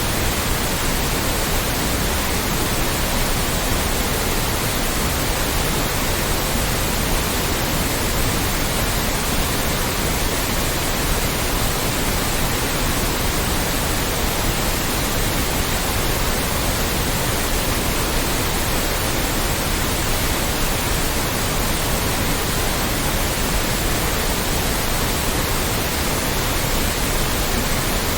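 Loud, steady white noise: an even hiss across all pitches that does not change.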